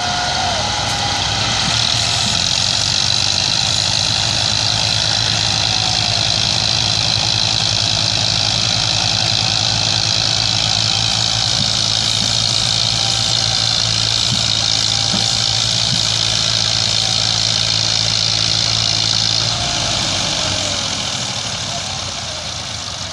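Tractor's diesel engine running steadily. It eases off and gets a little quieter about twenty seconds in.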